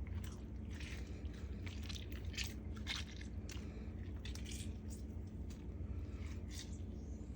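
Salad ingredients being handled and mixed: scattered light crunches and clicks over a steady low hum.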